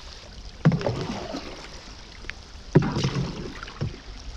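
Rain falling steadily on water and a dinghy, with two dull knocks about two seconds apart.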